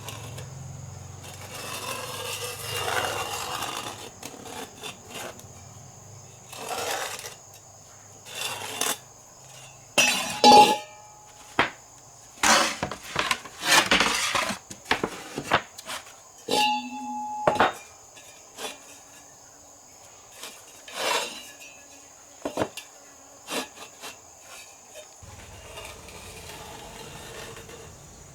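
Hand work on parts: a run of irregular clinks, knocks and scrapes, the loudest cluster past the middle, with a brief steady tone lasting about a second around two-thirds of the way through.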